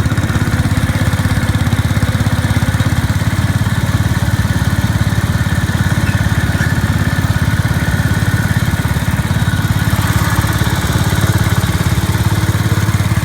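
Small garden tractor engine running steadily at an even idle, warming up after a jump-started cold start.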